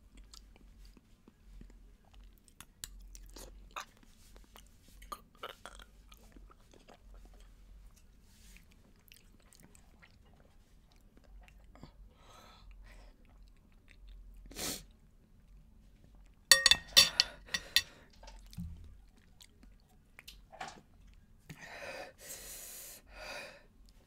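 A person chewing spicy fruit Jell-O eaten from a spoon, with soft chewing and small mouth clicks. About two-thirds through comes a quick run of sharp clicks, the loudest sound, and near the end a longer rush of noise.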